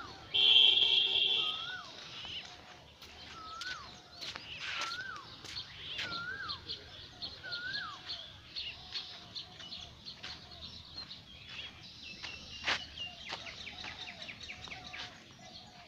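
Birds calling and chirping, one repeating a short rising-then-falling call about once a second over a chorus of quicker chirps. About half a second in, a loud steady sound with several pitches lasts about a second and stands out above the birds.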